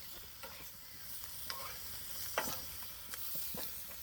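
Newly lit campfire crackling and hissing as it catches on damp tinder and firelighters, with a scatter of sharp pops, the loudest about halfway through.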